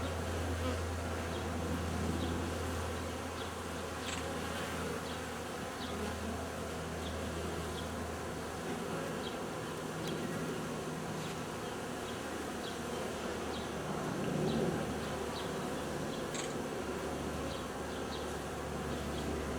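Honeybee swarm buzzing: a steady drone from thousands of bees clustered in a ball on a branch, a little louder about fourteen seconds in.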